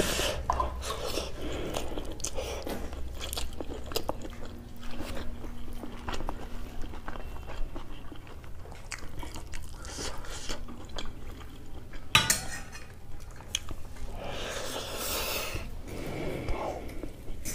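Close-up chewing and mouth sounds of someone eating jeera rice and curry by hand, with fingers scraping on a stainless steel plate. A sharp click about twelve seconds in.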